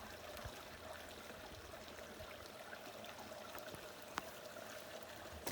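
Mountain brook babbling steadily over rocks, with a single short click about four seconds in.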